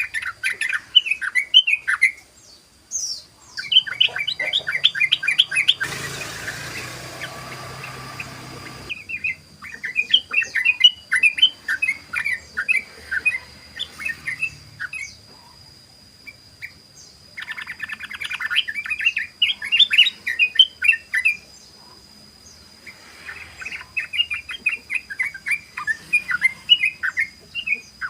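Yellow-vented bulbul (trucukan) singing its rapid 'ropel' song: quick, bubbly runs of chattering notes in five or so phrases, each a few seconds long, with short pauses between. A burst of rustling noise runs from about six to nine seconds in, and a faint steady high whine sits underneath.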